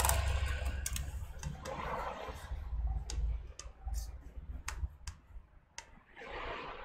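Irregular small clicks and taps of plastic parts being handled, with some rubbing, as a laptop keyboard is worked loose to slide it out of its top cover.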